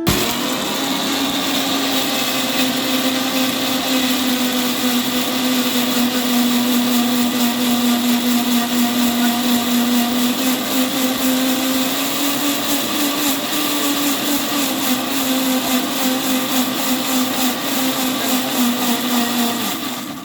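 Electric mixer grinder running steadily, grinding ingredients into a paste, with a hum that shifts slightly in pitch about halfway through. It starts and cuts off abruptly.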